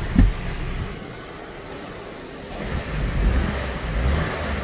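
SAAB 9-3 2.0-litre turbo four-cylinder engine idling just after a cold start, running smoothly. A single thump comes just after the start, and wind buffets the microphone with a low rumble from a little under halfway on.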